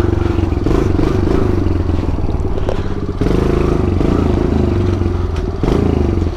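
Pit bike engine running under way, revving up and down as the throttle changes, with short dips in pitch about three seconds in and again near the end.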